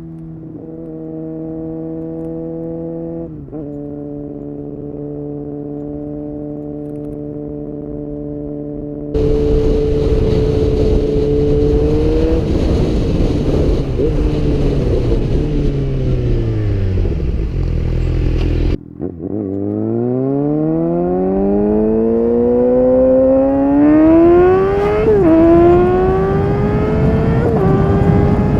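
Suzuki GSX-R 750 inline-four engine with a Yoshimura exhaust, heard from the rider's position. It runs at a steady pitch, suddenly gets louder about nine seconds in, and then drops in pitch as the bike slows. After an abrupt break it accelerates hard, rising steadily in pitch, with two quick upshifts near the end.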